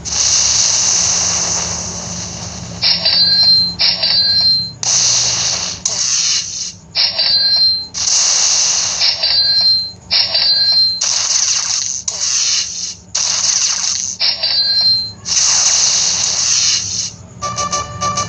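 Lightning Link slot machine sound effects: repeated hissing whooshes about a second long, alternating with short, high chiming dings, over a low steady hum. Near the end a fast run of pitched electronic beeps begins.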